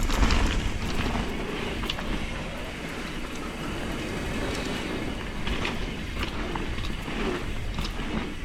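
Enduro mountain bike riding down a dirt trail: a continuous rumble of tyres and wind, with scattered clicks and rattles from the bike over the bumps.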